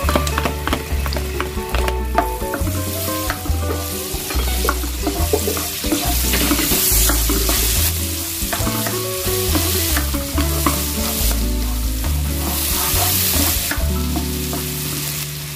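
Chopped onion and garlic sizzling in hot melted butter in a wok, stirred and pushed around with a spatula.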